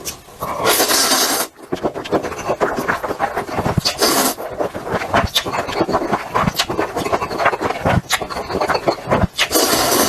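A person eating close to the microphone: a dense run of chewing and crunching clicks, broken by longer hissing bursts about a second in, around four seconds in and near the end.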